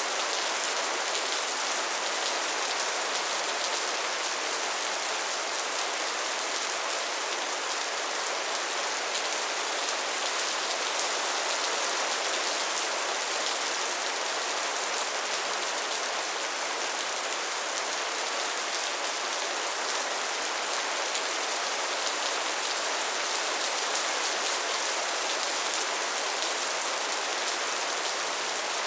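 Steady soft rain falling, an even patter of drops on a surface.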